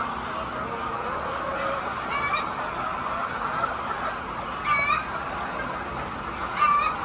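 A flock of laying hens making steady, many-voiced clucking chatter. Three short, loud squawks stand out: about two seconds in, about five seconds in, and near the end.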